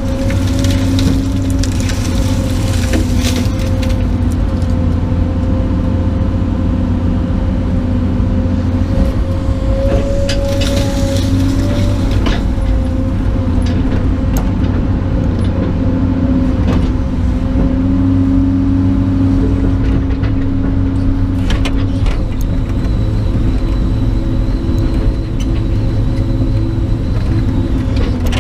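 Heavy machine's diesel engine running steadily under load while it shoves dried brush and tree trunks over a bank, with branches cracking and snapping now and then.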